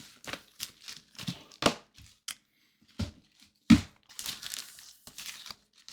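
Plastic packaging crinkling and rustling in irregular bursts as the next CGC graded comic slab is taken out and handled, with a loud sharp tap a little past the middle.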